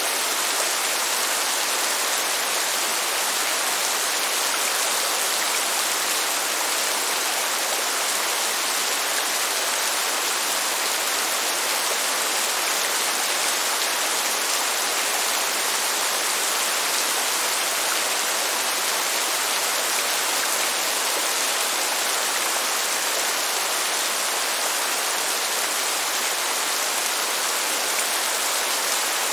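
Steady heavy rain, an even hiss that does not change, with no thunder.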